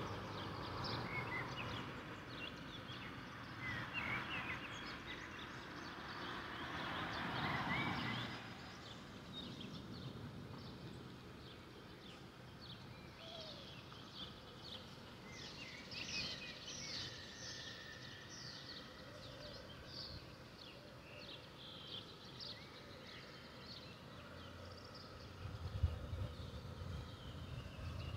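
Small birds singing, with many short high chirps over a steady outdoor background. A rushing noise builds and stops about eight seconds in, and low rumbling with a few sharp knocks starts near the end.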